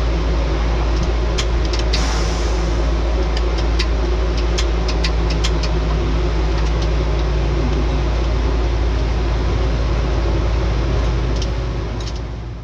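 Drag race car engine running steadily, heard from inside the car, with a deep constant rumble and scattered sharp clicks and rattles; the sound fades out near the end.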